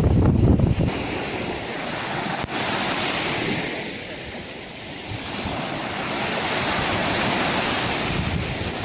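Sea waves surging and breaking in a steady rush of surf, loudest with a low rumble at the start, easing off around the middle and building again toward the end.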